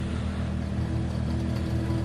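Car engine idling steadily, a low even tone that holds without revving.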